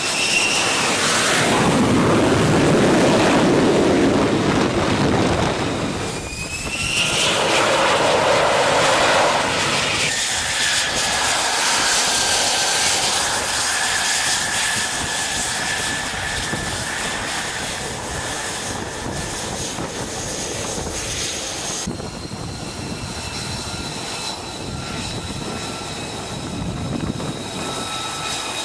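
F-35B fighter's Pratt & Whitney F135 jet engine, loud over the first few seconds and again from about seven to ten seconds in, with a high turbine whine that rises about six seconds in. For the rest it settles to a steadier rumble with several high whining tones.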